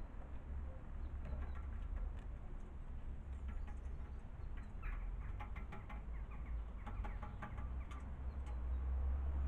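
Small garden birds calling at a feeder, a cluster of short chirps about halfway through, over a steady low rumble.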